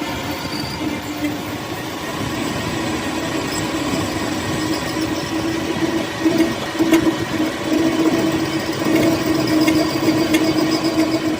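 Machinery running steadily with a constant hum and a few sharp clicks.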